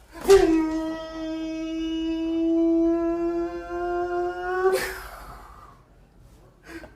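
A person's voice holding one long, steady note for about four and a half seconds, starting abruptly and ending in a short breathy exhale.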